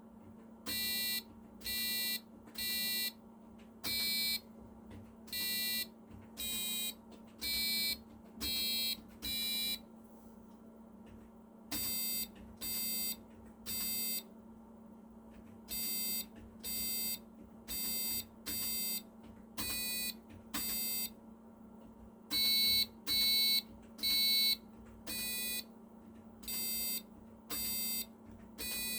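Homemade electronic keyboard piano playing a melody one note at a time in harsh, buzzer-like beeps, each note about half a second long at a changing pitch, with a short pause around the middle. A faint steady hum runs underneath.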